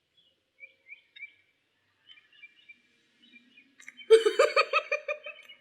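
Faint short high chirps, then about four seconds in a loud burst of rapid, evenly pulsed voice sounds from a person reacting to an unfamiliar snack, such as laughing or coughing.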